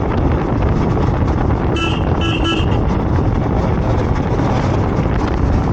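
Steady low rumble of a motorcycle ride, the Royal Enfield Himalayan's single-cylinder engine and wind on the microphone, with a vehicle horn tooting in a few quick pulses about two seconds in.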